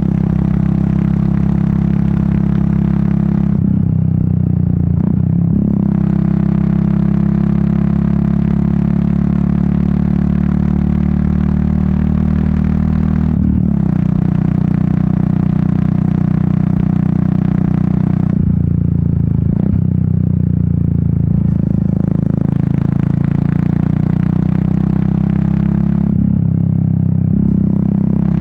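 Royal Enfield Meteor 350's single-cylinder engine and exhaust running on the move, a steady, deep note. Several times the upper part of the sound falls away and the pitch shifts briefly before the note picks up again.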